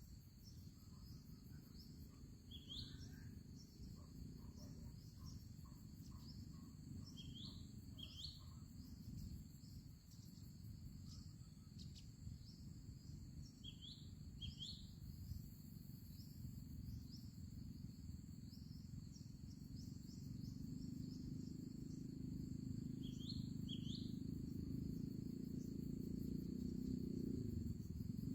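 Outdoor ambience with a steady, high insect chorus. A small bird gives pairs of short, quick chirps every several seconds, about five times. Under them is a low rumble that grows louder over the last third.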